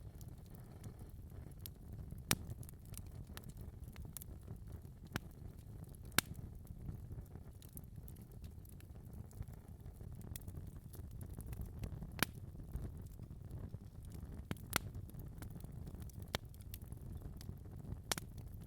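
Wood fire burning in a fireplace: a low steady rumble of flames with sharp, irregular crackles and pops of burning logs, the loudest a few seconds apart.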